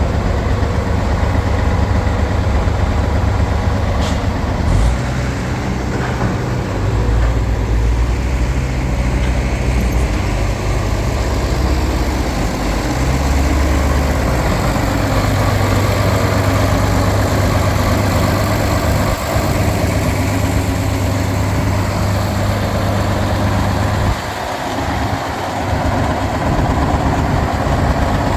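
John Deere 5010 tractor's six-cylinder diesel engine running steadily, with a deep, even engine note that shifts a few times and drops away briefly near the end before picking up again.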